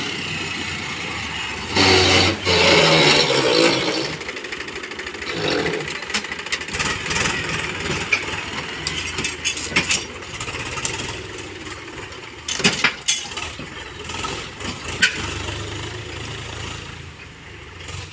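Heavy diesel machinery engine running, with a louder surge about two seconds in and several sharp knocks in the second half.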